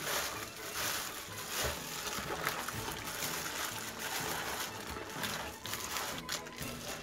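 Close-miked wet chewing of raw whole gizzard shad, swelling and fading in irregular bites about once a second.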